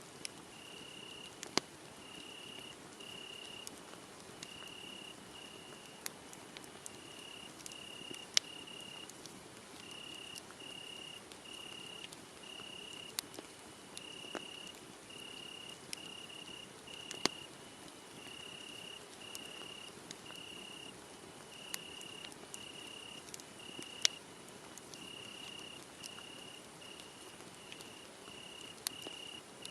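A cricket chirping steadily in short, even pulses, about one and a half a second, over a wood fire that gives off sharp crackles and pops at irregular moments.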